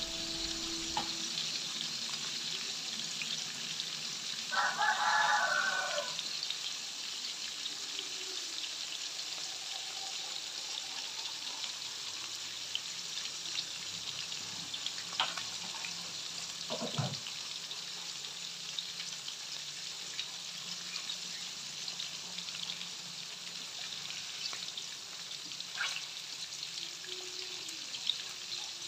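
Pork belly slices frying in oil in a wok: a steady crackling sizzle with occasional sharp pops. A brief pitched call sounds over it about five seconds in.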